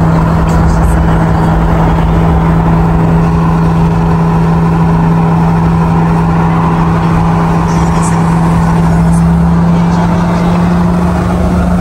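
Car engine droning at a steady pitch at highway speed, heard from inside a moving car, over a constant rumble of road and wind noise.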